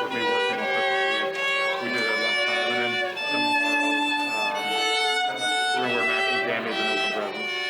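Live music carried by a violin, playing a melody of held notes that change about every half second to a second.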